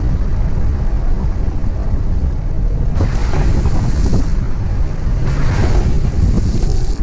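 Strong wind buffeting the microphone in a steady low rumble, with two rushing hisses about three and five and a half seconds in, each lasting a second or more.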